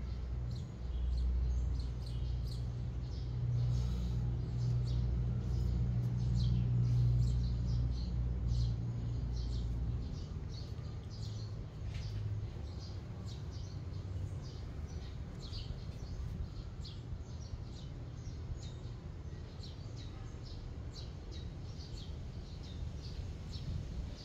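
Small birds chirping in quick, short notes again and again, over a steady low rumble that is heavier in the first half and eases about ten seconds in.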